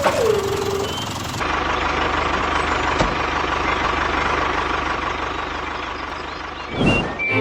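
Steady engine-like running noise, with a falling tone at the start, a single click about three seconds in, and a short sweep near the end.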